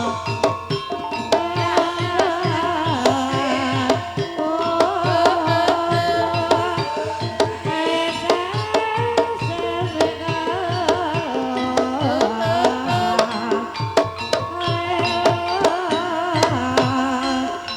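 Gamelan music accompanying an ebeg dance: kendang hand drums beat a busy rhythm under ringing metallophone notes, with a wavering high melody line over the top.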